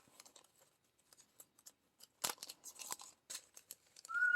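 Scattered small clicks and taps of diamond-painting drills being picked up and pressed onto the canvas. Near the end comes a short whistle that steps up in pitch: the pet parrot answering over the Alexa intercom.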